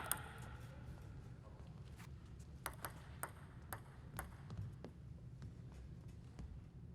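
Celluloid-type plastic table tennis ball clicking sharply in a string of light, separate hits, often about half a second apart, over a faint low hall hum.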